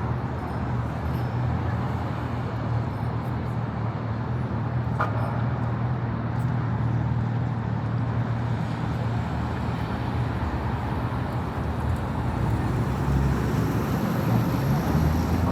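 Steady city road traffic: cars running past on a busy street, with a low engine hum under the tyre noise, growing louder near the end as traffic comes closer.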